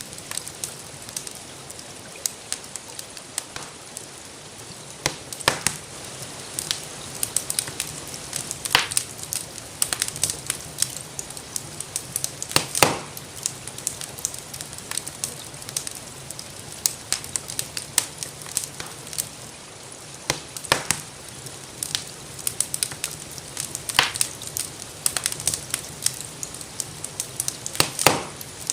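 Wood fire crackling in a fireplace: constant irregular small pops and ticks, with a louder snap every few seconds, over a steady soft hiss of rain.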